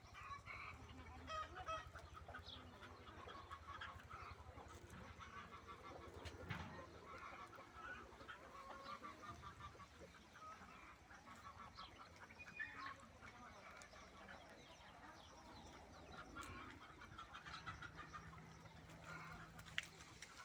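Farmyard poultry calling faintly: chickens clucking, with occasional waterfowl calls.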